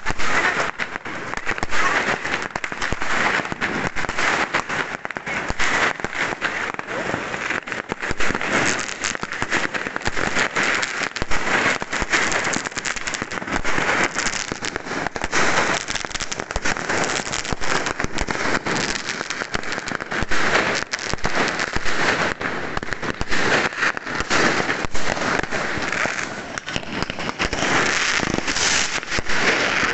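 Fireworks going off without pause: a dense, continuous barrage of pops, bangs and crackling.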